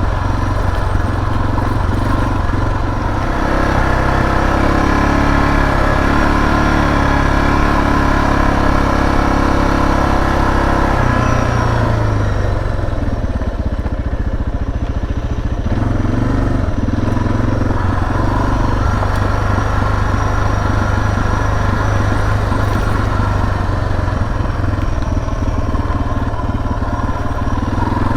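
Suzuki DR650's single-cylinder four-stroke engine running under way while the motorcycle is ridden, its note shifting a few times as the throttle changes.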